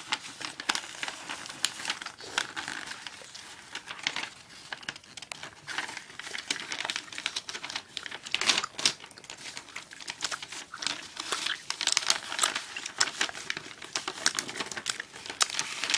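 A sheet of printer paper crinkling and rustling as it is handled and folded, with irregular sharp crackles.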